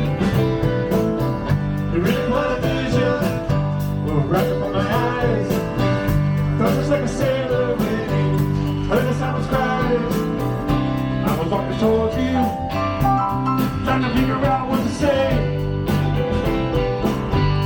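Band playing country-blues style music: a singer over guitar and a steady drum beat.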